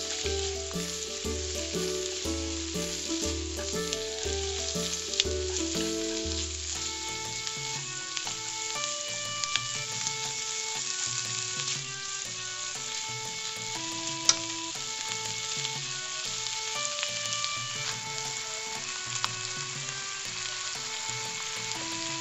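Spinach and bacon sizzling in butter in a frying pan as they are stirred, a steady hiss with a few sharp clicks, one standing out about 14 seconds in. Background music plays throughout, with bass notes for the first seven seconds and a light melody after.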